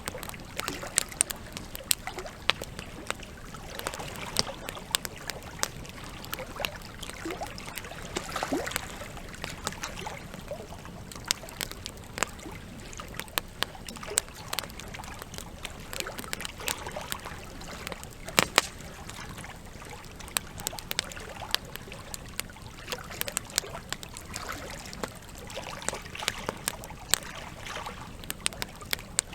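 Wood campfire burning, with frequent irregular crackles and pops of the logs over a steady bed of trickling water.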